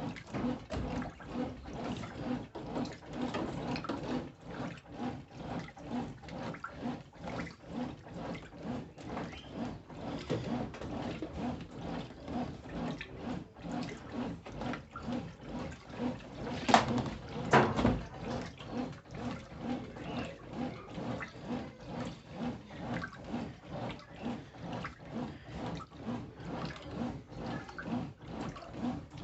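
Brastemp Intelligent 7 kg washing machine churning clothes in water, a rhythmic sloshing about twice a second, during its soak or wash agitation. Two sharp knocks stand out a little past the middle.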